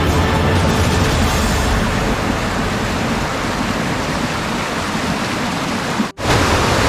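Steady rushing roar of a waterfall, with the tail of background music fading out in the first second or two. The sound cuts out very briefly about six seconds in.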